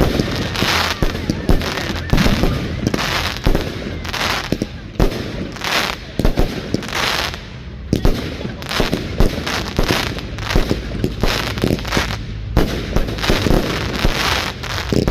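Fireworks display going off in quick succession: a steady run of sharp bangs mixed with short stretches of crackling.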